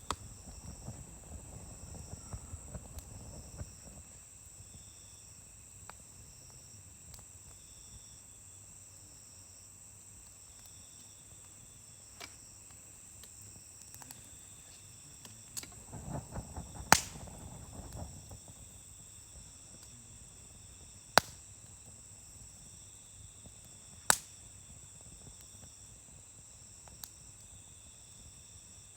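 Wood campfire burning: soft crackling comes and goes, with three loud sharp pops in the second half. Crickets chirp steadily in the background.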